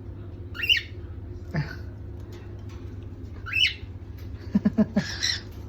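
Cockatiel giving two sharp squawking calls about three seconds apart, which the owners take as a bid for attention before sleep. Near the end there is a quick run of low pulses followed by a brief hiss, over a steady low hum.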